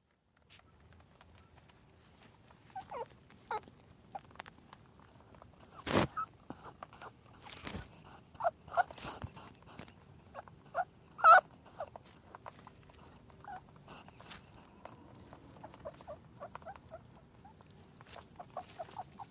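A small animal's short squeaks, some falling in pitch, coming irregularly among clicks and light rustling; two sharp clicks stand out above the rest.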